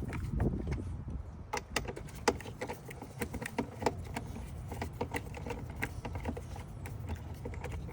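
Irregular light clicks and clinks of hand tools and fasteners being worked in a car's engine bay, over a steady low hum.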